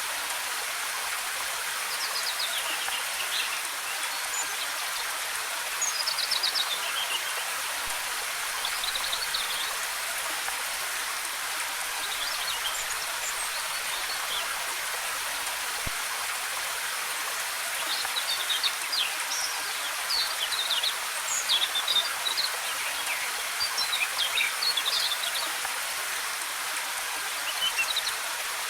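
Steady rush of a waterfall's cascading water, with forest birds chirping and trilling now and then over it, busiest in the second half.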